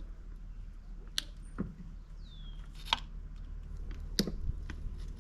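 A few sharp metallic clicks and taps, about four, from hand work on the engine's cam chain and sprocket while its timing is set, with a short falling squeak near the middle, over a steady low hum.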